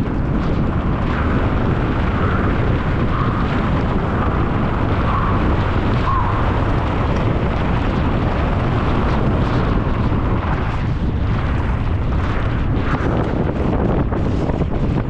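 Loud, steady wind rush buffeting the microphone of a mountain bike's camera during a fast downhill run, with rumbling tyre noise under it.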